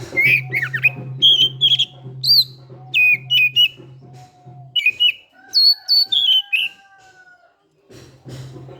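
Oriental magpie-robin singing in full song: a run of loud, sharp whistled notes and quick slides, with a couple of long held notes past the middle before a pause near the end.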